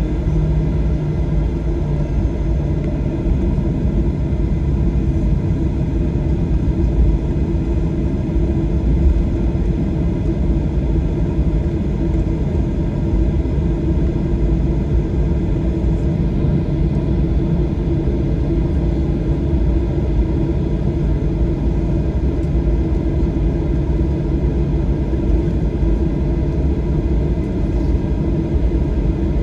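Cabin noise inside a Boeing 737-800: a steady rumble with a low, even hum from its CFM56 engines, typical of the aircraft rolling on the ground.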